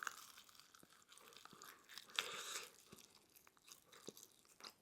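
Faint chewing of food close to the microphone: scattered small mouth clicks, with a slightly louder stretch of chewing about two seconds in.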